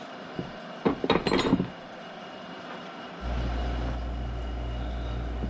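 Small metal parts and tools clinking against each other for about a second, followed about three seconds in by a steady low hum that starts abruptly.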